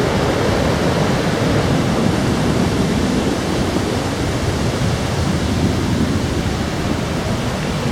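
Steady, loud rush of a river's falling water.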